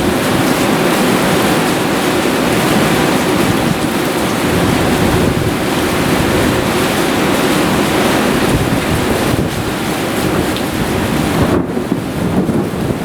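Heavy thunderstorm downpour with wind buffeting the microphone, a loud steady rush of rain. Near the end the hiss thins out abruptly.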